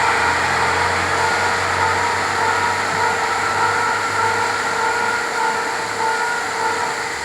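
Freight train's wagons rushing through a tunnel station at speed: a loud, steady noise of wheels on rail with ringing tones that pulse about twice a second as the wagons go by. It eases slightly toward the end.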